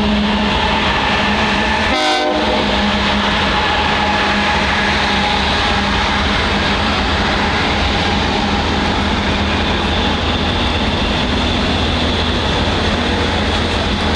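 Train running past or through the station, giving a loud, steady rumble and rail noise throughout.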